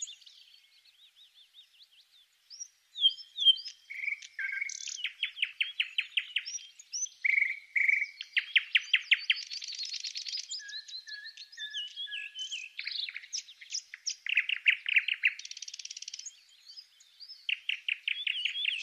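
A small songbird singing: bursts of rapid trills alternating with varied chirps and short whistled notes, fainter for the first two seconds or so.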